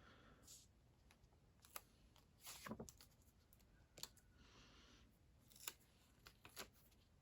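Faint clicks, taps and a brief rustle of paper as sticker sheets are handled, several separate small sharp clicks with a short soft rustle near the middle.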